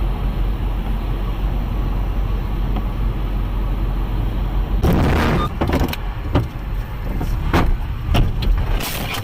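Dashcam audio of a vehicle on the road: a steady low road and engine rumble. About five seconds in comes a sudden loud noisy burst, followed by several sharp knocks and bangs, the sound of a crash.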